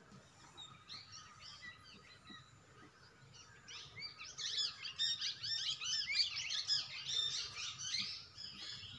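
Small birds chirping, faint and scattered at first, then a dense, louder flurry of many overlapping short chirps from about four seconds in that eases off near the end.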